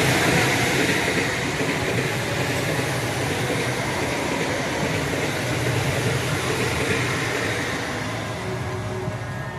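A passing train, a steady rumble and rattle of wheels on rails that slowly fades as it moves away.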